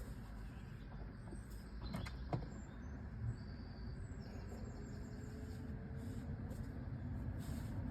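Quiet car cabin with a faint steady low hum, the fan switched off, and a few light clicks about two seconds in.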